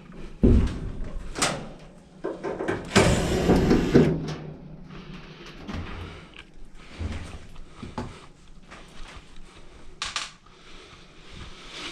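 Irregular clunks, knocks and scraping from a clothes dryer's parts being handled as it is taken apart, with the loudest scraping about three seconds in.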